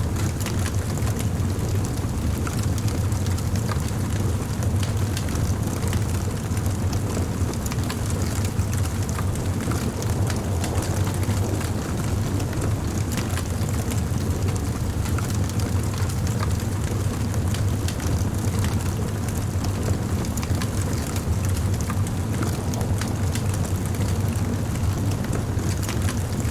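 Campfire burning: a steady low rumble of flames with frequent small crackles and pops of burning wood throughout.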